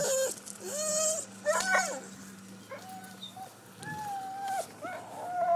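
A dog making its odd drawn-out whining calls instead of barking: about five long, high, mostly level-pitched cries in a row.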